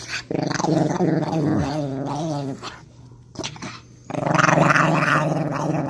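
A dog growling in two long stretches, the first starting just after the beginning and the second about four seconds in.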